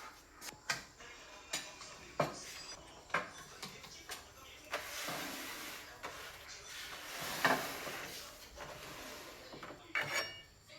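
Irregular sharp clicks and knocks, with a longer stretch of scraping or rustling noise in the middle.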